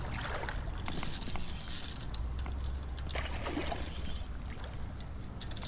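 Water sloshing and splashing while a hooked smallmouth bass is fought in a creek, with scattered small clicks and handling noise.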